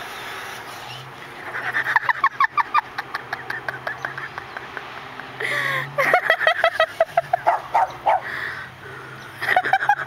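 A small dog yapping in quick runs of short, high yips, three runs in all, with a faint steady low hum underneath.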